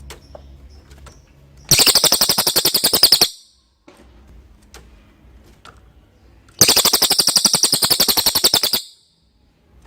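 Cililin songbird giving two loud, rapid chattering rattles, the first about two seconds in and the second, longer one about halfway through, with faint short high chirps between them.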